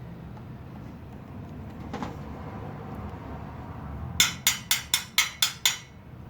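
A quick run of seven sharp clicks, about four a second, starting about four seconds in, over a low background hum.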